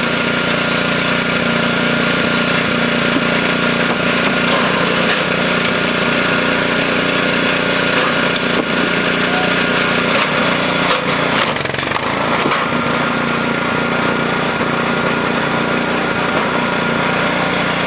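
The small gasoline engine of a Super Split log splitter running steadily under work, its pitch wavering briefly about eleven seconds in.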